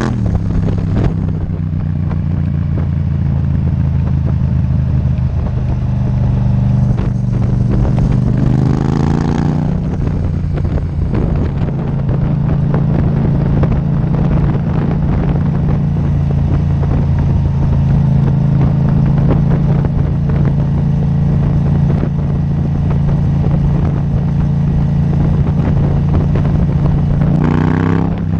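Yamaha MT-07 parallel-twin engine through an Akrapovic titanium exhaust, ridden: the revs drop just after the start, rise and fall again about a third of the way in, then hold a steady drone before climbing again near the end.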